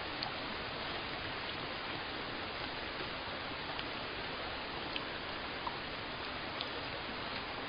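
Steady rain falling, an even hiss with a few separate drops ticking through it now and then.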